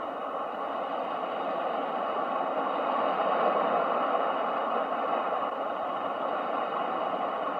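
Ocean waves as a steady rushing noise, swelling slowly to a peak midway and easing off again.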